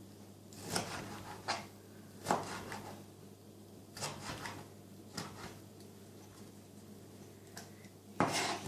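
Irregular knocks and clatters of kitchen items being handled and set down, about seven of them, over a steady low hum.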